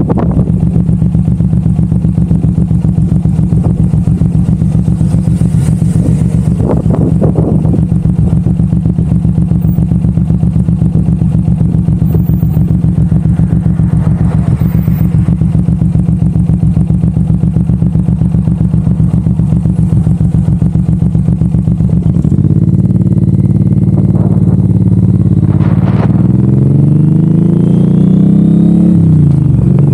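Suzuki M109R's 1,783 cc V-twin engine running at a steady pitch, then getting louder about two-thirds through; near the end its note climbs, dips and climbs again as the bike accelerates.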